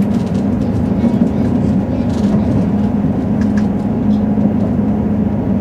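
Passenger train running at speed, heard from inside the carriage: a steady rumble from the wheels and track with a constant low hum underneath.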